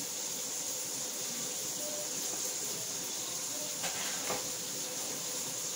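Food frying in a pot on the stove: a steady sizzling hiss, with two light knocks about four seconds in.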